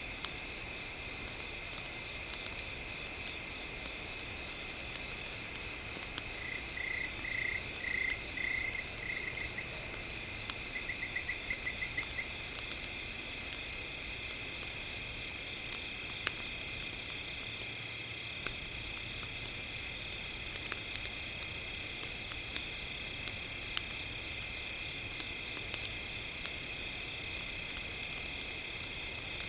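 Chorus of insects trilling steadily at several high pitches, with one singer's pulsed chirps standing out twice in the first half. There are a few faint clicks.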